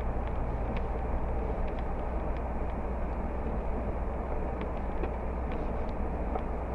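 Steady low rumble of a vehicle heard from inside the cabin, with faint scattered ticks throughout.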